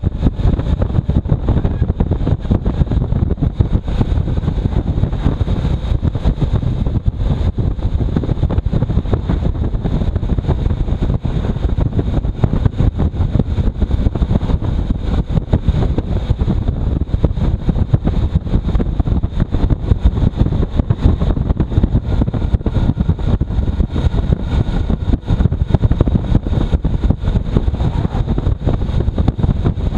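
Motorcycle riding in strong wind: heavy wind buffeting on the microphone over the running engine, a loud, steady, fluttering rumble.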